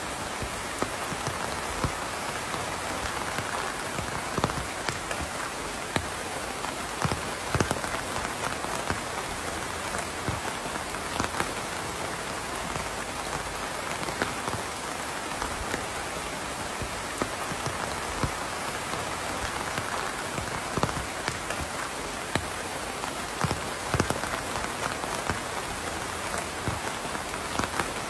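Steady rain falling on a surface, an even hiss with scattered sharper drips and ticks of individual drops.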